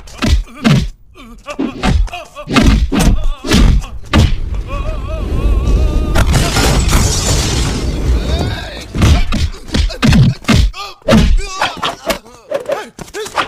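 Film fight sound effects: a long run of heavy punch and body-blow thuds, with men's grunts and shouts over background music.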